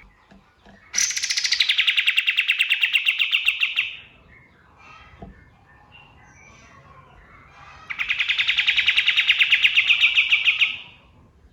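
Kapas tembak songbird singing two long, fast trills of quickly repeated notes, about three seconds each, one starting about a second in and the other about eight seconds in. Faint chirps of other birds can be heard between them.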